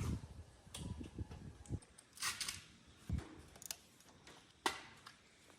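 Scattered light clicks and knocks of small metal tools and engine parts being handled on a bench, with a short scraping rustle about two seconds in and a few dull thuds.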